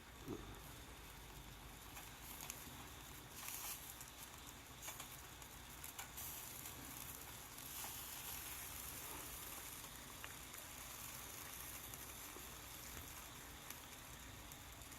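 Meat sizzling on a grill over a charcoal fire pit, with scattered small crackles and pops.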